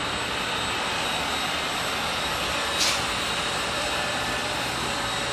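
Steady hum and noise of a powered-up CNC Swiss lathe and the machine shop around it, with a brief hiss almost three seconds in.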